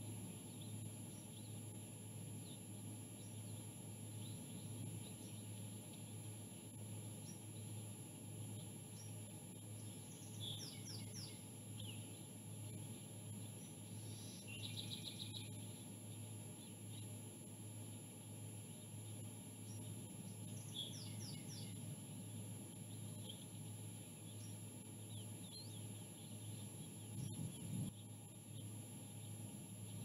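Small birds chirping in the background, faint, in three short clusters of quick high notes, one a rapid trill. Beneath them runs a steady low hum with a thin high whine, and a single click comes near the end.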